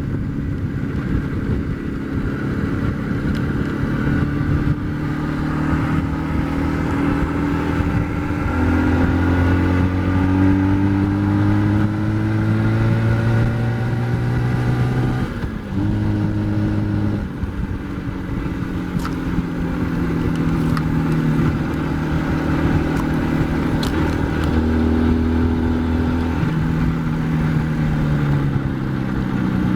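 IZh Jupiter-4 motorcycle's two-stroke twin-cylinder engine under way, its pitch climbing as it pulls and dropping in steps as the gears are changed, several times over. There is a brief lift-off about halfway through.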